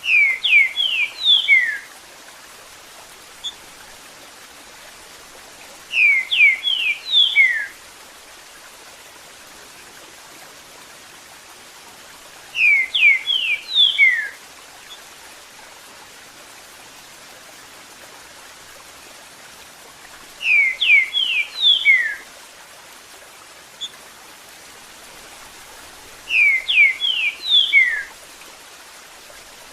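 Green-winged saltator (trinca-ferro) singing its 'Eu sou terrível' song: the same phrase of quick, downslurred whistles, about two seconds long, repeated five times roughly every six seconds, over the steady sound of running water.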